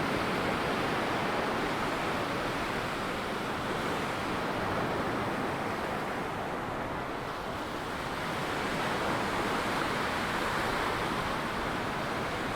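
Ocean surf breaking and washing up a sandy beach in a steady wash, easing a little about halfway through and building again.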